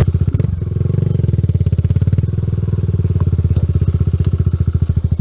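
Kawasaki Z125's single-cylinder four-stroke engine running at low revs, a steady, even putter of firing pulses.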